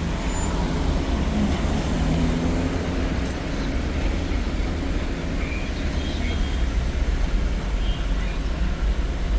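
Steady low rumble of a car in traffic, heard from inside the vehicle: engine and road noise.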